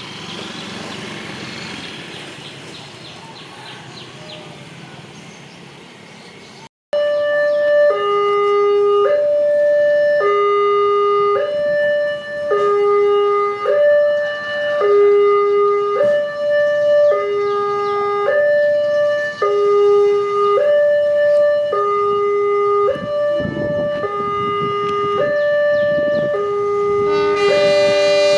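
Railway level-crossing early-warning siren, a Wantech unit, sounding a two-tone hi-lo wail that switches pitch about every three-quarters of a second, warning that a train is approaching. Before it comes several seconds of steady rushing noise that cuts off abruptly, and a horn chord joins near the end.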